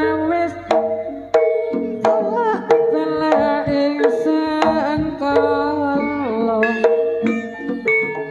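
Javanese jaranan ensemble music: sharp, irregular hand-drum (kendang) strokes over a sustained, wavering melodic line.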